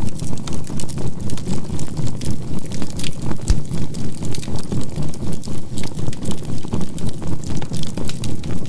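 Charcoal campfire crackling with scattered sharp pops, over a low synthesized healing tone that throbs evenly about three times a second.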